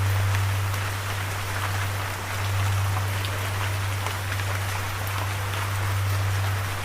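Steady rain falling, a dense hiss scattered with small drop ticks, over a steady low drone.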